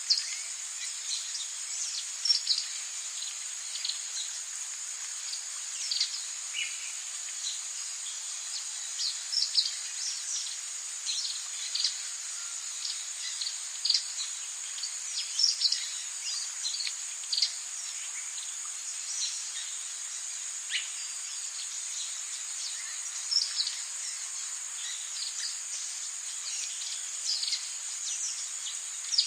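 Rainforest ambience: a steady high-pitched insect drone with frequent short bird chirps and calls scattered over it.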